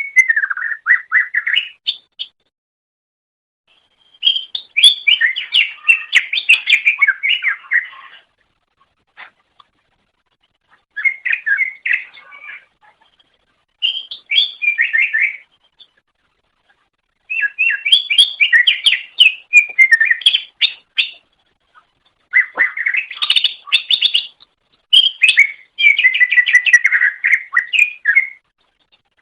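Green leafbird (cucak ijo) singing: six phrases of rapid, varied chattering and whistled notes, separated by silent gaps of one to three seconds.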